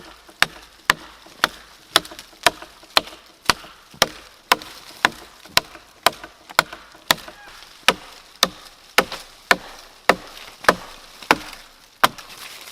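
Wood being chopped with an axe: a steady run of sharp strikes, about two a second.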